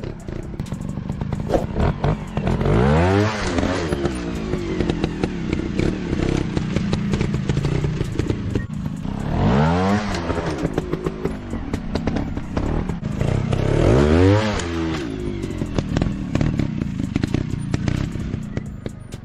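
Motorcycle engines running, revving up and dropping back three times with a steep climb and fall in pitch, over steady clattering and scraping.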